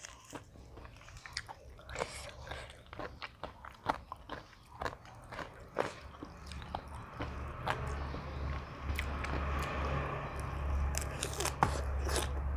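Close-up eating sounds: a person biting and chewing crunchy food, many short crunches and clicks of the mouth. A low steady hum comes in about halfway through.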